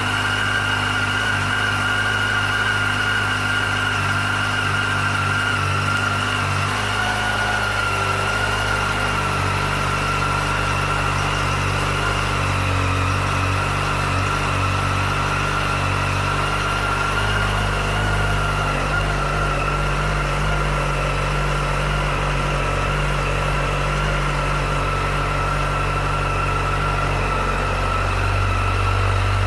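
A 2007 Yamaha FZ1's 998 cc inline-four engine idling steadily just after a start, with an even pitch and no revving.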